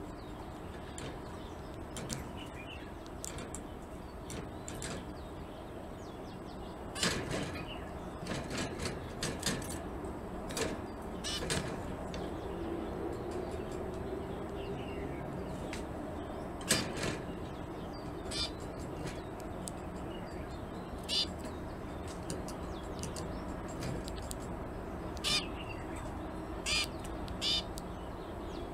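Short, harsh bird calls, one at a time, heard every few seconds over a steady background hum, mixed with faint clicks.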